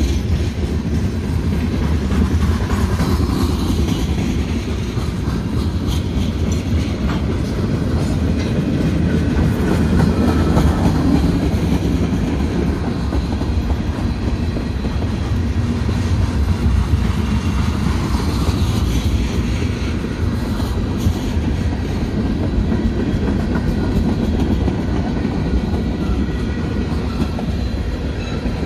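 Freight cars of a Union Pacific manifest train, covered hoppers and then tank cars, rolling past slowly with a steady rumble and the wheels clicking over the rail joints.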